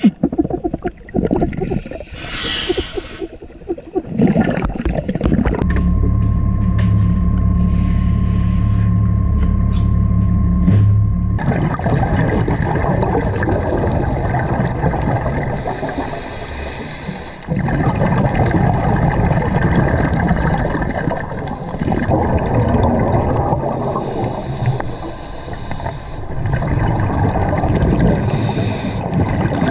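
Water sloshing and rushing right against the microphone, muffled and heavy in the low end. From about six seconds in, a steady low hum with a thin held tone runs for some five seconds, then gives way to louder, denser water noise.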